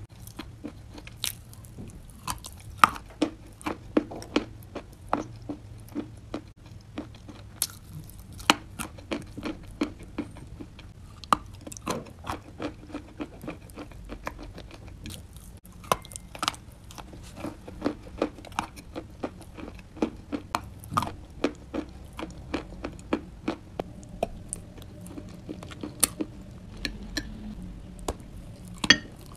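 Close-up mouth sounds of chewing chalk: dry, sharp crunches several times a second, uneven in rhythm. Near the end comes a bite into clay.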